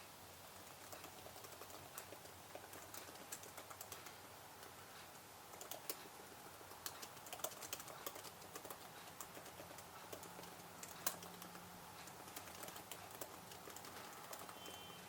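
Typing on a computer keyboard: a faint, uneven run of key clicks, with one sharper keystroke about two-thirds of the way through.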